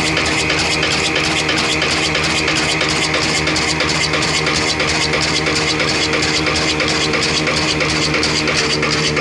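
An 18 hp Ittefaq 'kala desi' single-cylinder stationary diesel engine running steadily, with an even beat of about five a second.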